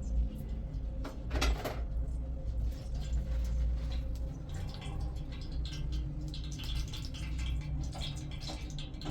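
Kitchen clatter: scattered light clinks and knocks of dishes and utensils over a steady low rumble, with one louder clatter about one and a half seconds in.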